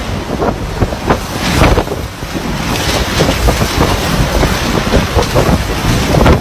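Typhoon wind blowing hard in gusts, buffeting the microphone with a loud, irregular rumble.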